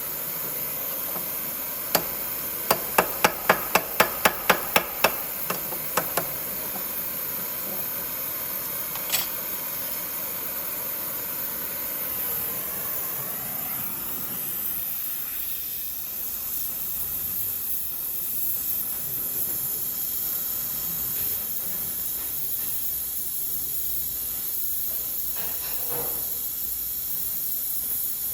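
Steady hiss, with a quick run of about a dozen sharp knocks about two seconds in, at roughly three a second, and one more knock a few seconds later.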